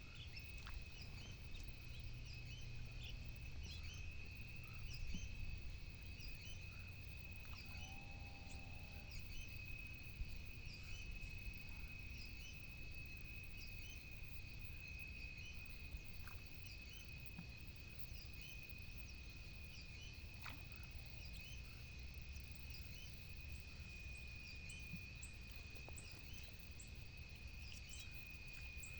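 Outdoor wildlife ambience: a steady high-pitched drone with scattered short chirps over a low rumble, and one brief call about eight seconds in.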